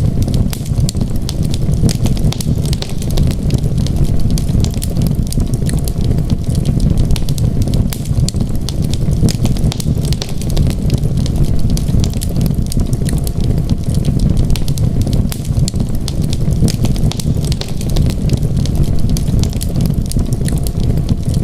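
Wood fire crackling, with many small sharp pops and snaps, over a steady low rumble of storm wind.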